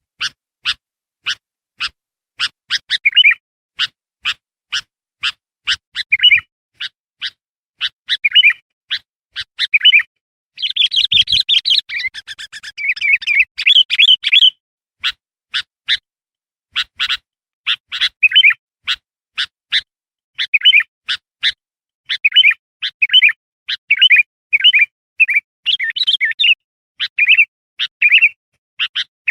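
Kutilang (bulbul) lure calls: a steady string of short, sharp chirps about two a second, mixed with brief warbled phrases, and a stretch of dense, busy chattering about ten to fourteen seconds in.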